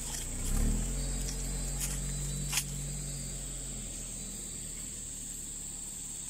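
Steady high-pitched drone of a rainforest insect chorus. A low car-engine hum rises about half a second in and fades away by about four seconds.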